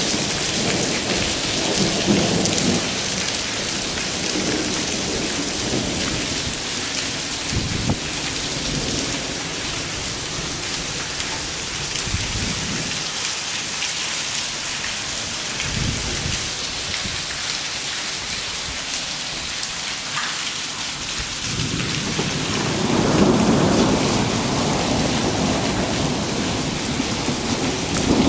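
Thunderstorm with hail: a steady hiss of falling hail and rain throughout. Thunder rumbles in the first few seconds, and a longer, louder roll of thunder builds about three-quarters of the way through.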